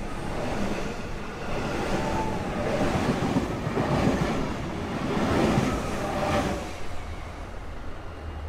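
Electric suburban train running on the rails, a noisy rumble with gliding wheel tones. It swells over several seconds, then eases off near the end.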